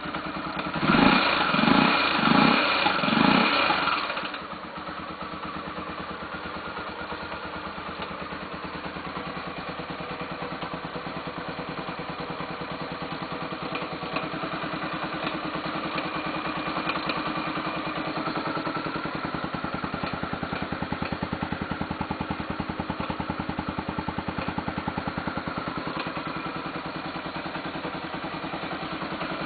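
Honda XR 250 Tornado single-cylinder engine blipped up a few times in quick succession, then idling with a light ticking from the top end, which the owner suspects is the tappets. It is a tec-tec-tec noise that appears with the engine cold at low revs.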